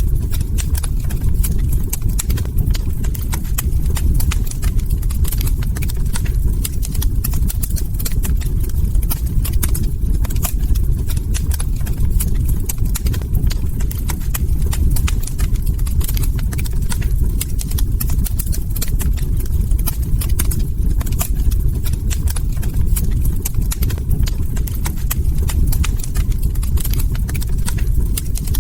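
Log fire crackling, with many irregular sharp pops and snaps over a steady low rumble.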